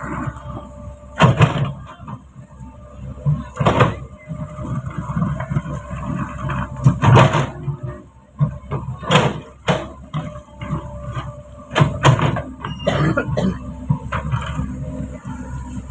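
A truck running, with a steady low rumble and irregular loud clunks and bangs every second or two, as the body jolts and rattles over a rough road.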